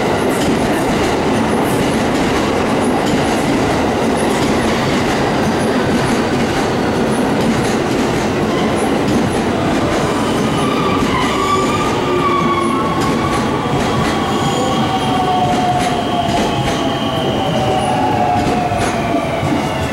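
JR West electric commuter train pulling into a station platform, with steady rumble and clatter of wheels on rail. From about halfway through, a whine of several tones falls slowly in pitch as the train slows.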